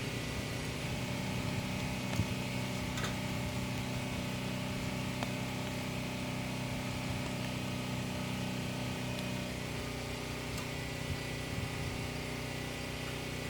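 A steady engine hum, like a motor idling, with a few light clicks about two and three seconds in.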